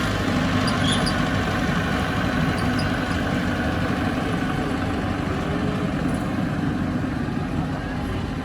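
Heavy diesel engine of earthmoving machinery running steadily, with no change in speed.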